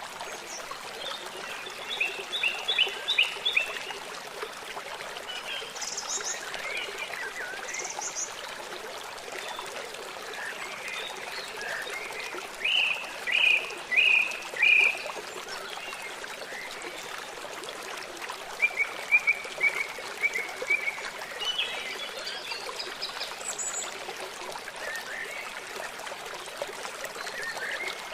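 Running water from a stream burbling steadily beneath forest birds singing. Scattered chirps and short trills come through; the loudest is a run of four strong notes about halfway through, and a quicker series of notes follows a few seconds later.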